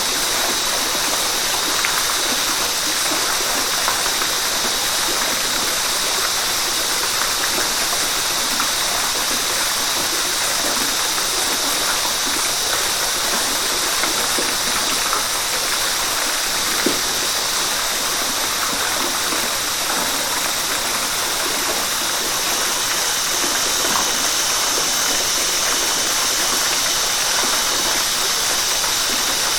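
River water rushing steadily over rocks, an even, unbroken rush weighted toward the high, hissing end.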